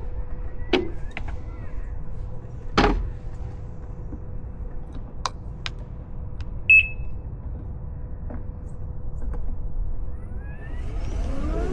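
Can-Am Pulse electric motorcycle: a few sharp clicks and one short high beep, then near the end its motor whine rising steadily in pitch as it pulls away.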